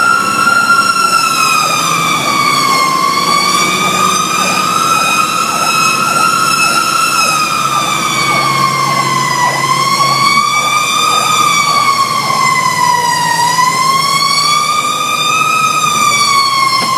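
Fire truck siren sounding in a slow wail, its pitch rising and falling about every four to five seconds, over the low hum of the truck's engine.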